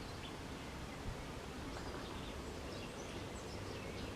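Steady outdoor background hum and hiss, with faint, scattered bird chirps.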